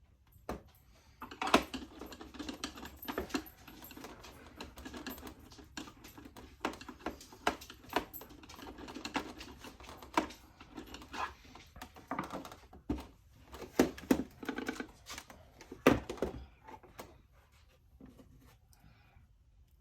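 Irregular run of small sharp clicks and taps: hands working the plastic casing and screws of a Sax-A-Boom toy saxophone during reassembly. The clicking starts about a second in and dies away near the end.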